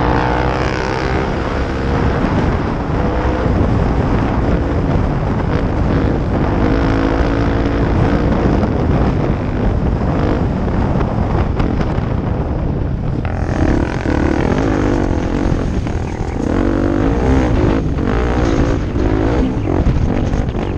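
Off-road motorcycle engine running under load, its pitch rising and falling repeatedly as it revs and changes gear, over a steady low rumble.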